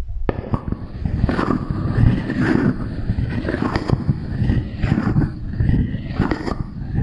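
Close-miked ASMR handling sounds run through an echo effect: continuous scraping and clattering with many quick strikes.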